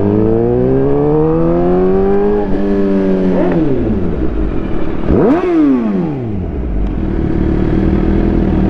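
Inline-four sportbike engine pulling up through the revs, with shifts about two and a half and three and a half seconds in. A quick rev rises and falls sharply around the middle, then the engine settles to a steady drone.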